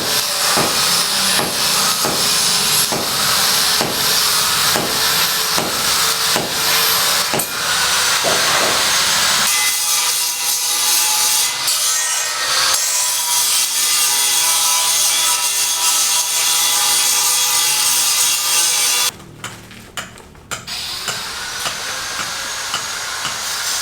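Rhythmic rasping strokes like hand-sawing wood, about one and a half a second for the first ten seconds, then changing abruptly about ten and nineteen seconds in.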